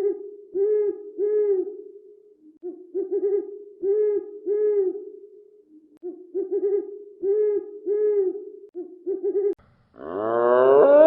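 A bird's low hooting calls: three repeated phrases of several round notes, each phrase about three seconds long. About ten seconds in, a loud rising wail starts.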